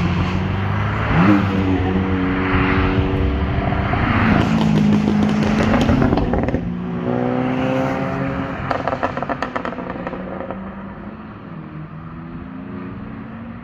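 A performance car's engine and exhaust at high revs, its pitch rising and stepping through gear changes, then falling as the driver lifts off. There is a rapid run of exhaust pops and crackles on the overrun about nine seconds in, and the car fades as it moves away.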